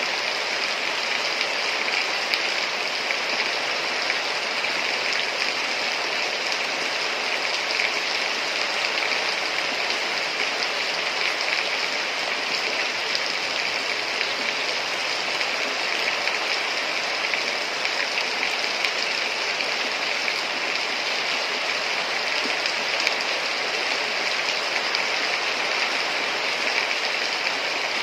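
Heavy rain falling steadily, a dense even hiss of water with no let-up.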